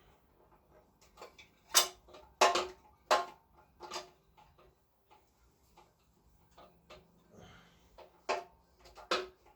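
Motorcycle parts being handled and fitted by hand during reassembly: a string of separate sharp clicks and knocks, with a short scraping rustle about seven and a half seconds in.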